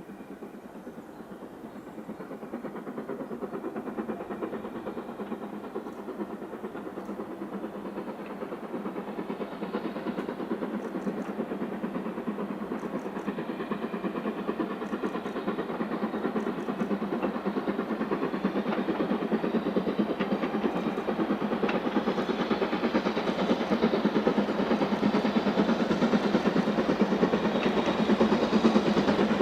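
A train running on the line and drawing closer, its rolling noise growing steadily louder, with faint paired clicks about every two seconds through the middle.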